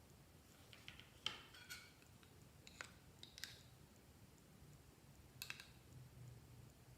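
A handful of faint, scattered clicks and pops from glossy slime being handled and pressed.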